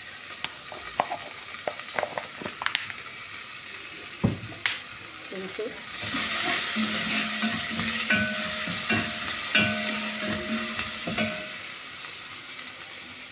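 Onions and garlic sizzling in olive oil in a metal pot (sufuria), with a spoon stirring and clicking against the pot. The sizzle grows louder about halfway through.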